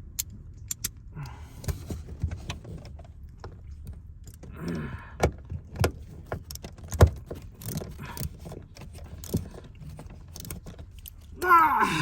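Metal tools and seatbelt hardware clinking and clicking irregularly during hand-tool work in a car's rear seat area, with a sharper knock about seven seconds in.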